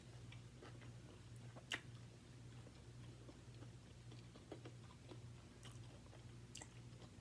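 Faint mouth sounds of a person chewing crispy-skinned chicken wings, with scattered small clicks and one sharper click a little under two seconds in, over a steady low hum.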